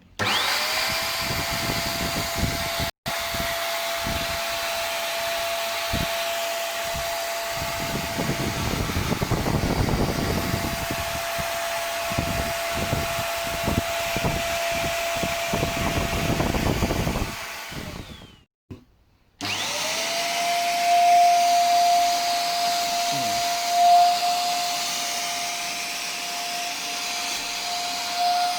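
Techwood bagless vacuum cleaner running: its motor whines up to speed at the start and runs steadily, with irregular rattling from about 4 to 17 seconds in. The motor then winds down and stops, and after a second's pause is switched on again and runs to the end.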